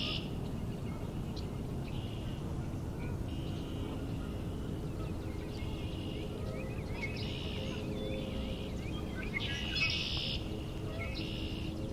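Outdoor spring bird chorus: several songbirds singing short trilled, buzzy phrases that repeat every second or two, over steady low background noise.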